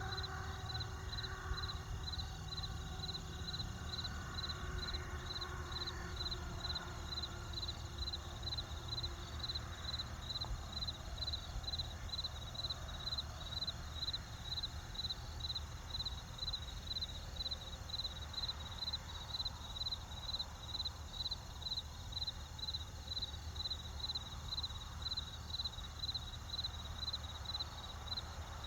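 Crickets chirping in a steady, even rhythm, about two high chirps a second, over a low steady rumble.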